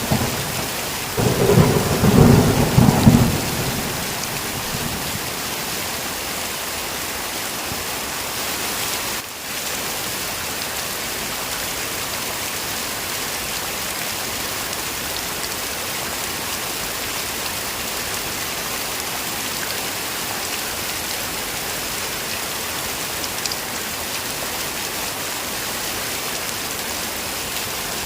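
Heavy rain falling steadily in an even hiss. A roll of thunder rumbles for about two seconds starting a second in, the loudest part.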